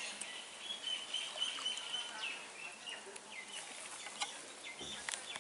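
Birds chirping with thin, high calls and short falling notes, with a few light clicks mixed in.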